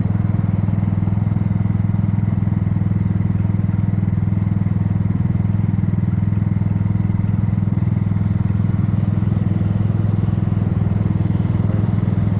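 Kymco People 250 scooter's engine and exhaust running steadily at a constant level while under way, with its exhaust leaks freshly sealed with high-heat epoxy; semi-quiet.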